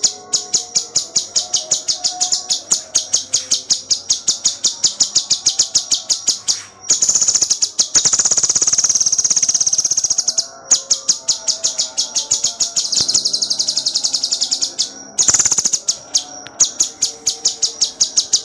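Cucak cungkok bird singing: rapid, tightly spaced repeated high notes, about five or six a second. The notes run into an unbroken high trill about seven seconds in for some three seconds, and again briefly near the end before the repeated notes resume.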